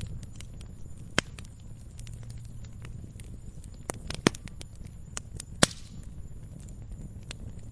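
Wood campfire crackling: scattered sharp pops and snaps over a steady low rumble of flame, with three louder pops about a second in, past the middle, and a little later.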